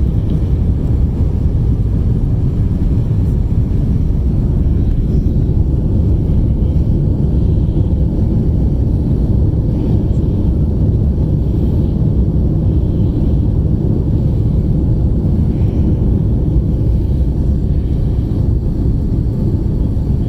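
Steady low roar of an Airbus A350's Rolls-Royce Trent XWB jet engines and rushing air during takeoff, holding an even level.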